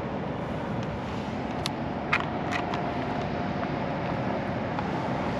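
Steady rumbling hiss, with a few sharp clicks about one and a half to two and a half seconds in.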